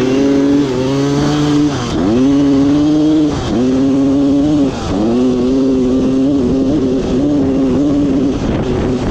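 Dirt bike engine running hard under the rider, its note dipping sharply and climbing back three times as the throttle is rolled off and on, then holding steady.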